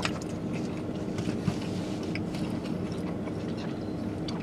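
Close-up chewing and mouth smacking of someone eating a barbecue bacon burger: irregular wet clicks over a steady low hum in the car cabin.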